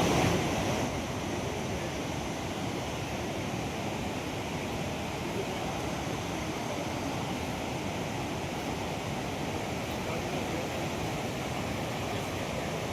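Steady rush of fast-flowing river water, an even roar with no breaks.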